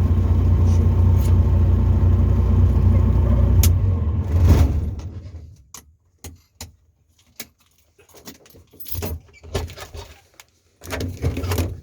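A Tecnam ultralight's engine runs steadily, then is cut about four and a half seconds in and spins down to a stop. Scattered clicks and knocks follow.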